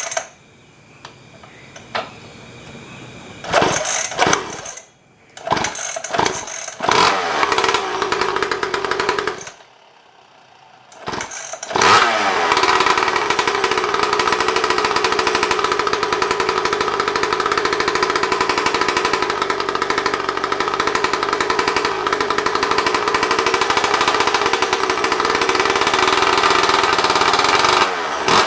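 Freshly assembled 50cc mini moto engine: a few short bursts of sound in the first dozen seconds, then it starts about twelve seconds in and runs steadily at an even pitch.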